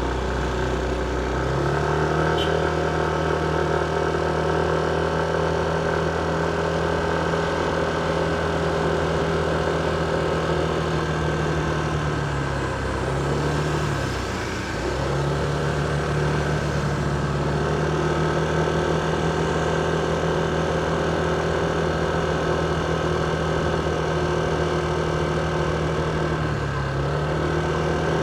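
Motorcycle engine running steadily with an even note, which dips briefly twice about halfway through and once more near the end.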